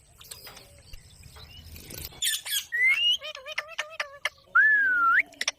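Pet parrot calling: sharp high squawks about two seconds in, then a short rising whistle and a quick run of clicking chatter, then a loud whistle that dips and sweeps upward near the end.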